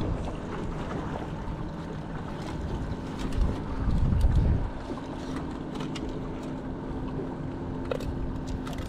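Wind buffeting the microphone outdoors by the water, a low rumble that swells louder for a moment about three to four seconds in, with a few faint clicks and a faint steady hum from about five seconds in.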